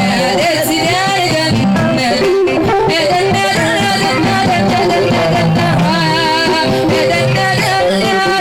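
Hassani music ensemble performing: a wavering, ornamented vocal line sung over a steady instrumental accompaniment.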